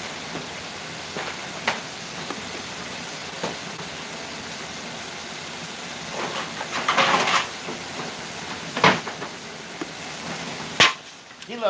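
Ribs frying in grease in a stainless pot, a steady sizzling hiss that drops away just before the end. Over it come a few sharp clicks and knocks of kitchen cupboard doors and a burst of paper-towel rustling about seven seconds in.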